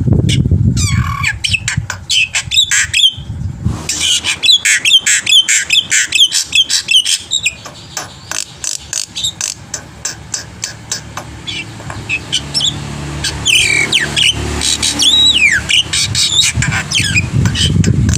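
Black-winged myna (jalak putih) singing a varied song. A rapid series of harsh, chattering notes gives way to clear whistles that slide downward.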